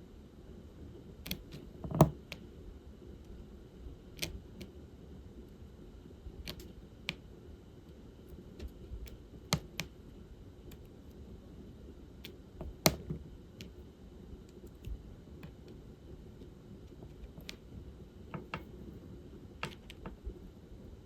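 Diamond painting work: small, irregular clicks and taps of a drill pen placing resin drills on the canvas and picking them from a tray. There are two louder knocks, one about two seconds in and one a little past the middle.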